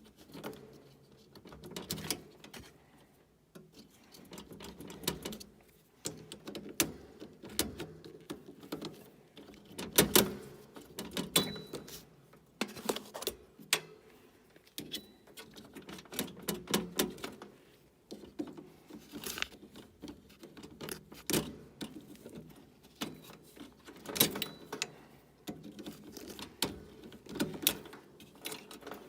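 Irregular small clicks, taps and metallic rattles of hand tools and wiring being worked inside an electric air handler, with a sharper knock about ten seconds in.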